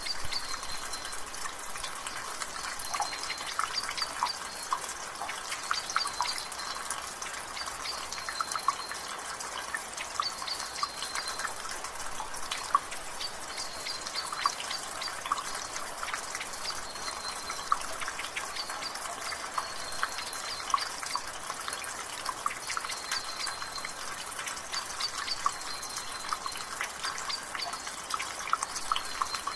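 Rainwater dripping from a gutter, a busy patter of small drips over the steady hiss of light rain, with a bird giving short high calls every few seconds in the background.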